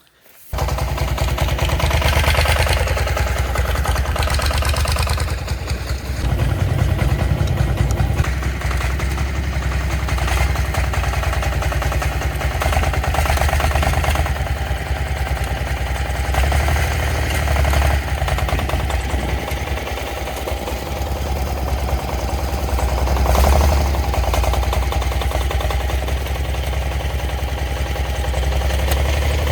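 Four-wheel-drive tractor's diesel engine running steadily, its level swelling and easing again several times as it is worked.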